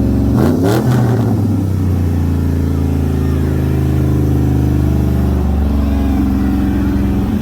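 A car engine revs up about half a second in, then is held at a steady speed for several seconds.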